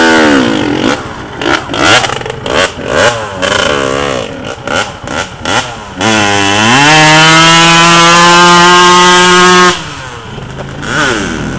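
Kawasaki KX125 two-stroke dirt bike engine revving in quick blips, then climbing about six seconds in to high revs held steady for nearly three seconds before the throttle is shut off.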